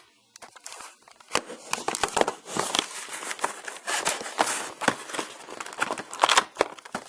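Cardboard and plastic packaging being handled and opened: irregular rustling and crinkling with sharp crackles, as the model airliner is pulled out of its box and plastic wrapping.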